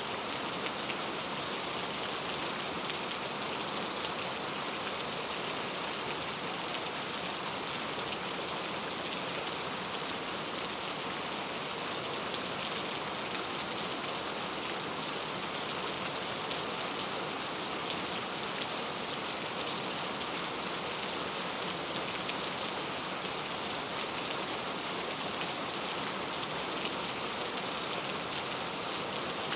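Steady rain, with fine scattered drop ticks over an even hiss.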